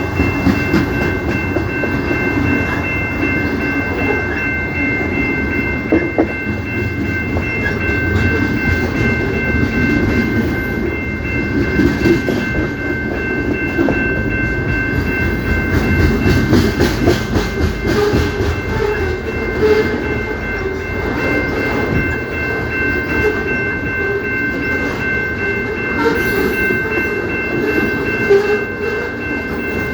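CP Rail train cars rolling past with a steady rumble and scattered clatter of wheels over rail joints. Three steady high-pitched tones are held throughout.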